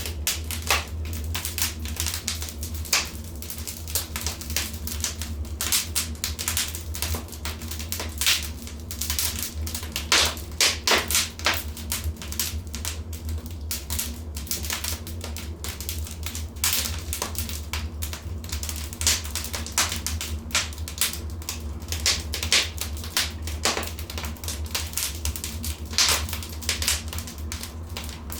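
Wood fire crackling in a fireplace: irregular sharp pops and snaps, some in quick clusters, over a steady low hum.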